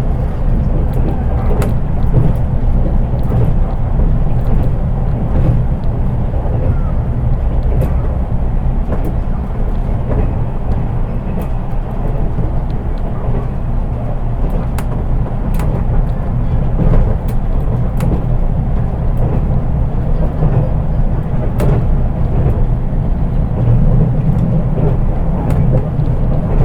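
Interior running noise of a JR East 183 series electric train, heard in its KuHa driving trailer car: a steady low rumble of wheels on rail with scattered sharp clicks. There is no traction motor whine because this car has no motors, so the sound is plain.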